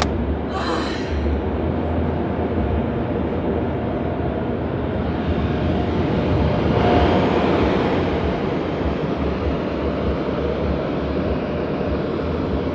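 Automatic car wash machinery working over the car, heard from inside the cabin: a steady roar with a low hum, a short hiss about half a second in, and a louder swell around seven seconds.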